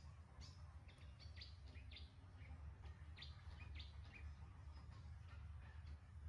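Faint bird chirps, many short falling notes in quick, irregular succession, over a low steady rumble.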